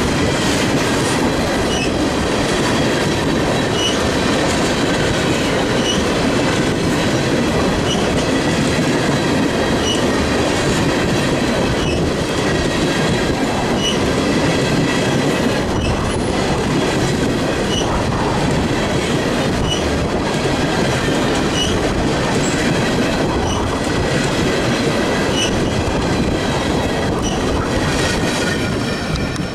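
Freight train of loaded tank cars rolling past at close range, a steady heavy rumble of steel wheels on rail, with short high squeaks every second or two.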